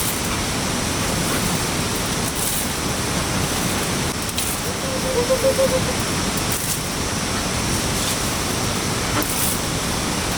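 Steady, loud rushing of water, filling the whole sound, with a brief pitched sound about five seconds in.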